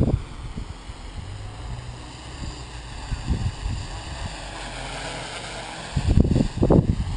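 Wind buffeting the microphone over the faint whine of a small quadcopter's electric motors and propellers, whose pitch wanders up and down as the motors hold it steady. A heavy gust of wind noise comes near the end.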